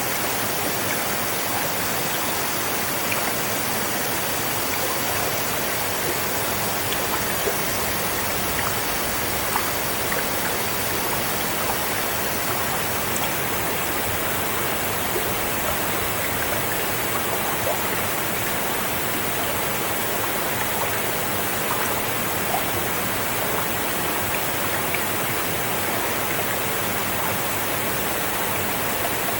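River water flowing steadily: a continuous rush of running water with scattered small splashes.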